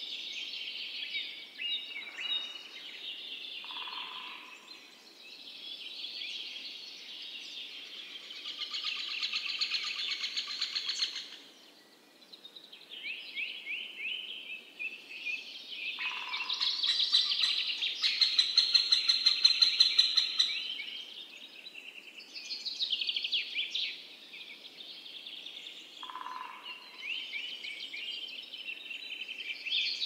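Several birds singing and calling over one another in chirps, trills and rapid runs of repeated high notes. The loudest is a run of fast repeated notes a little past the middle.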